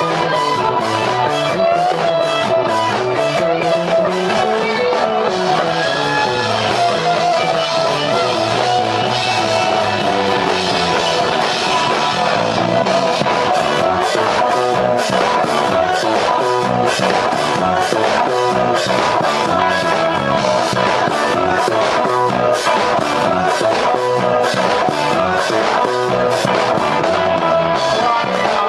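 Live rock band playing: electric guitar, bass, synthesizer and a drum kit, with held synthesizer-like tones over a driving beat. The drumming gets busier about halfway through.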